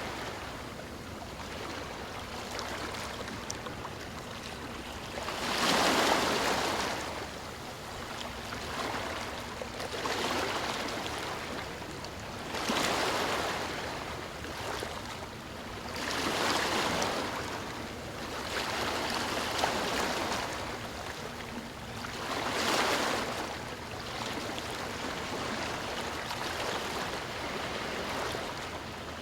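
Sea waves washing ashore, a broad surge of surf every three to four seconds over a steady background wash.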